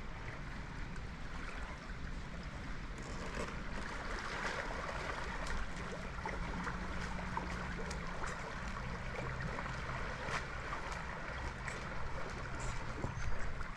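Steady outdoor river ambience: moving water and a low wind rumble, with scattered small clicks and knocks.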